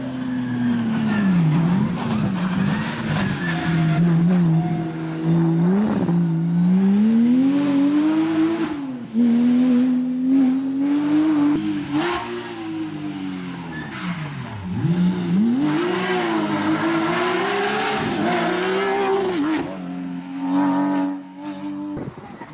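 Porsche competition car's engine at full effort, its pitch climbing and then dropping sharply over and over as it accelerates, shifts gear and slows for bends.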